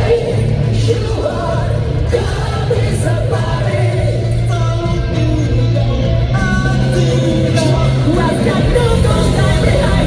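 Live J-rock band performing, with sung lead vocals over electric guitars and a steady bass line.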